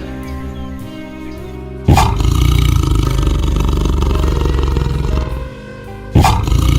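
Background music, then a loud, long, rough animal call that starts suddenly about two seconds in, and a second one near the end.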